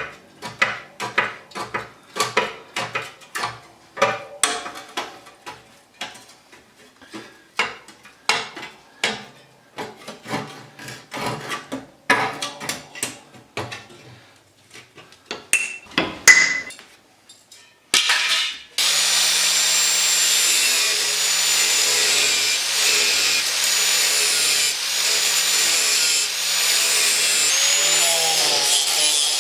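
Repeated rough scraping or striking strokes on metal, about two a second, for over half the time. A power tool then starts and runs steadily to the end, its pitch wavering slightly as it is worked against the metal.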